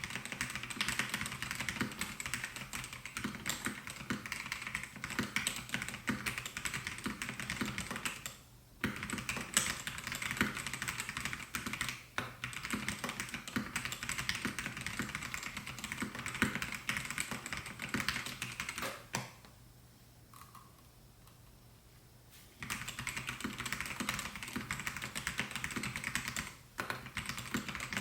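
Fast, continuous typing on a Melgeek Mojo68 mechanical keyboard with white Pro switches: a dense run of key clacks. It breaks off briefly about eight seconds in and stops for about three seconds around twenty seconds before resuming.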